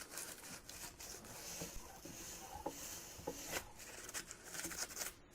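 Faint light scraping, rustling and small scattered clicks of handwork, with no machine running.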